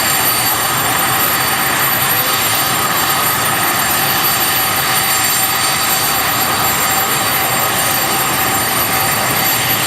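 Boeing CH-47D Chinook's twin turboshaft engines running steadily: a loud, even rush with several high-pitched turbine whines held at a constant pitch.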